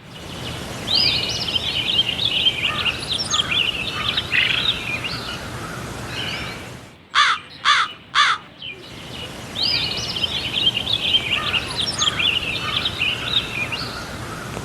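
Several birds chirping and singing at once, many overlapping calls. About seven seconds in they stop abruptly, three quick sharp falling sweeps follow, then the chirping starts again.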